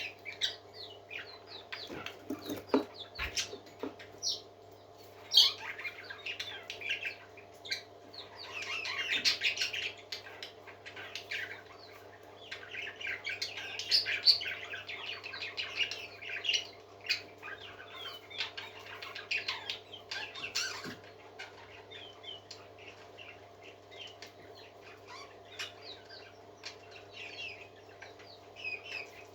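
Parakeets chirping and warbling in quick, overlapping bursts of chatter, busiest in the middle and thinning out in the last third, over a steady low hum.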